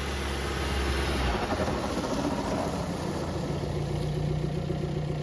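Jeep TJ Wrangler's swapped-in VW 1.9 TDI (BEW) four-cylinder turbodiesel running. Its note changes about a second in as the level rises a little, then it settles into a new steady hum.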